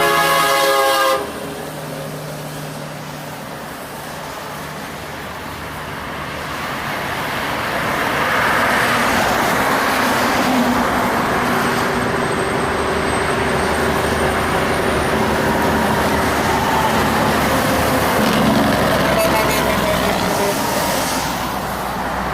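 A truck horn sounding and cutting off about a second in, then heavy trucks passing. Their engine and tyre noise swells from about eight seconds and stays loud until it eases near the end.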